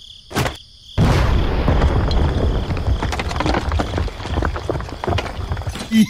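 A short knock, then about a second in a loud rumbling crash full of crackling knocks that runs on for about five seconds, like a rockfall or a wall of rock crumbling.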